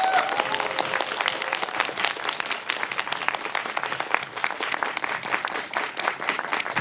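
Audience applauding, a dense patter of many hands clapping that thins slightly toward the end.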